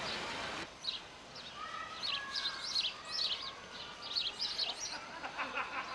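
Birds chirping, many short high calls in quick succession, with a couple of longer, lower whistled notes about two seconds in. A noisy background cuts off suddenly just under a second in.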